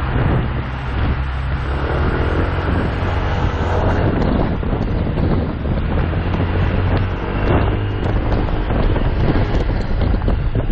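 Motorcycle engine running steadily while riding, its low hum shifting a little in pitch about two-thirds of the way through, with wind rushing over the microphone.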